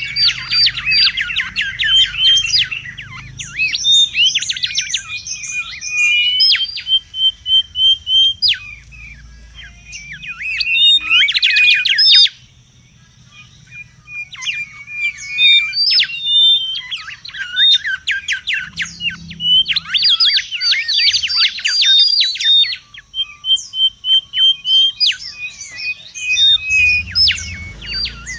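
Mangrove whistler (kancilan bakau) singing busily: loud bursts of fast chattering notes alternate with runs of short, evenly spaced notes, with a brief pause a little before halfway.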